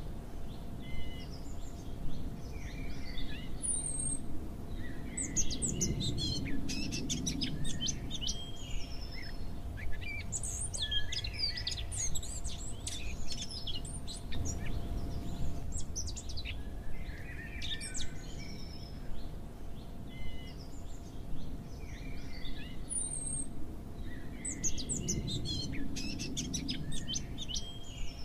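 Many small birds chirping and trilling over a low steady rumble, with a faint steady hum beneath. The same passage of calls comes round again about twenty seconds later, as in a looped recording.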